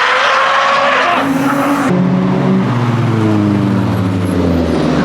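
A car drifting: its tyres squeal in one steady tone that cuts off suddenly about two seconds in, and then its engine note falls steadily as the revs drop.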